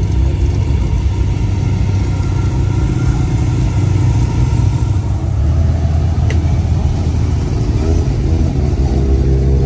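Car engine running at low revs, a deep steady drone, with a short click about six seconds in.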